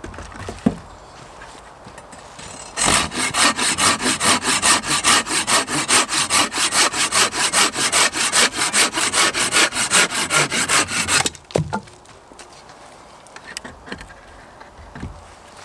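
Hand saw cutting through wood in quick, even back-and-forth strokes, starting about three seconds in and stopping abruptly about eight seconds later. Light knocks of wood come before and after the sawing.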